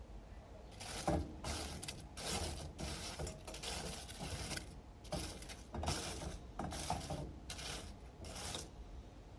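Freshly fried potato strips scraping and rattling against a container in a series of short rasping strokes, roughly one to two a second, as the batch is moved about after coming out of the oil.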